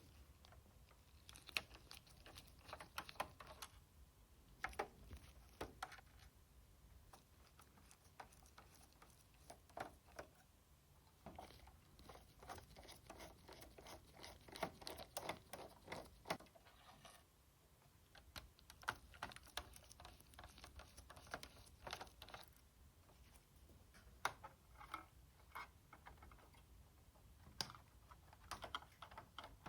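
Faint bursts of rapid small clicks and ticks as a PS4 Slim's plastic casing and screws are worked on by hand during disassembly, in about six separate runs with short pauses between.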